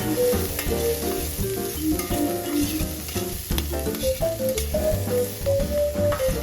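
Food sizzling as it fries, the hiss starting abruptly at the beginning, over instrumental background music with a melody and bass line.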